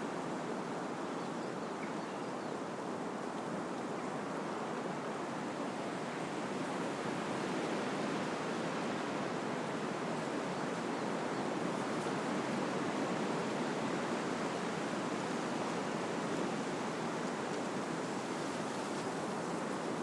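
Wind blowing through trees: a steady rushing of leaves and branches that swells a little midway and eases again.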